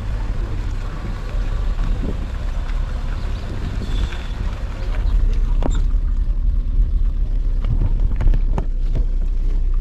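Car on the move: a steady low rumble of engine and road, a little louder from about five seconds in, with a few light knocks.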